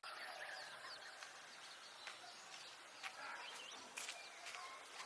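Small birds chirping faintly, with a couple of short sharp clicks about three and four seconds in.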